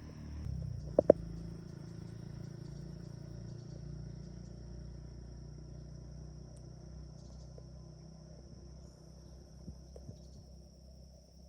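Insects trilling as a steady, unbroken high buzz, over a low rumble. Two sharp clicks about a second in, and a few faint ticks near the end.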